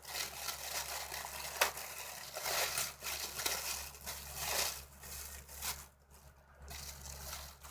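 Packaging rustling and crinkling in irregular bursts as it is handled and pulled at, with a sharp click about one and a half seconds in.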